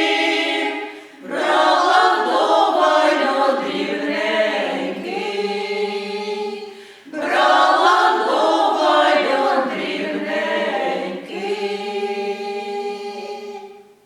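Folk vocal ensemble singing a Ukrainian folk song a cappella, with two breaks for breath between phrases. The song ends on long held notes that stop suddenly.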